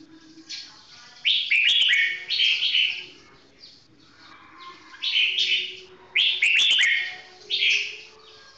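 Red-whiskered bulbul singing: two loud runs of quick song phrases, the first about a second in and the second about five seconds in, each lasting two to three seconds.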